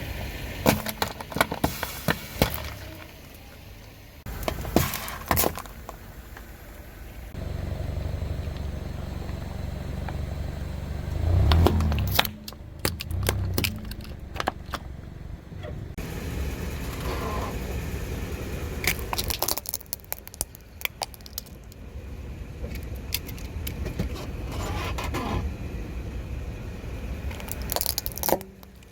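A car's tyre slowly rolling over and crushing crunchy objects, with several bursts of cracking and snapping, over the low steady hum of the car's engine, which swells briefly partway through.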